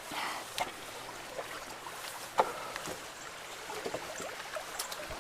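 Water running and splashing at a clogged culvert, with scattered small knocks and one sharper knock about two and a half seconds in.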